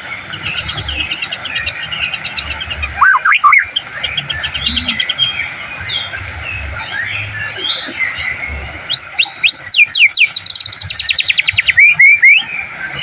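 White-rumped shama (murai batu) singing loud full-song phrases over a background of smaller birds chirping. About three seconds in comes a short rising whistle. From about nine seconds there is a series of steep downward-sweeping notes running into a fast trill.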